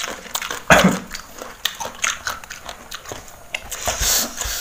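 Close-up biting and chewing of raw young timun suri, a crisp melon: a run of short crunches and wet mouth clicks, with a louder sudden burst about a second in.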